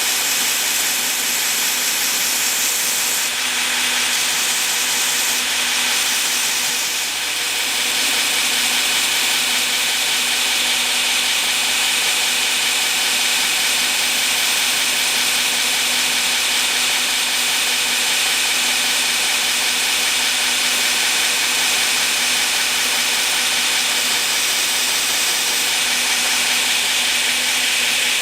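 Powered grinder abrading a knife's handle scales and G10 liners to shape: a steady, hissing grind over the hum of the running machine, easing briefly a few seconds in before settling again.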